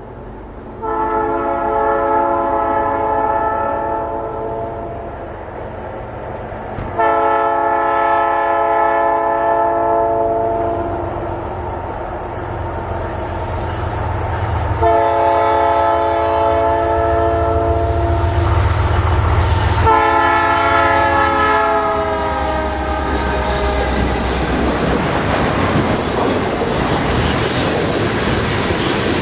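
Diesel freight locomotive's multi-chime air horn sounding four long blasts for a grade crossing, the last one bending slightly in pitch, over the rising rumble of the approaching engines. In the last few seconds the horn gives way to the steady roar of the train passing close by.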